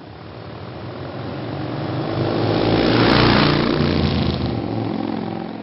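A motor vehicle passing by: its engine grows louder, is loudest about three seconds in, then fades away.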